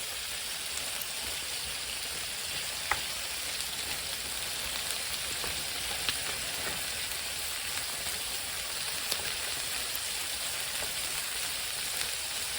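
Food frying in a hot pan: a steady sizzle with a few sharp pops and crackles now and then.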